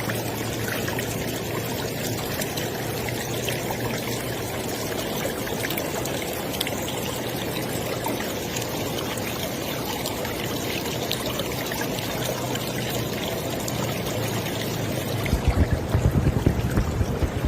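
River water flowing in a steady rush. About fifteen seconds in, an uneven low rumbling comes in on top and becomes the loudest part.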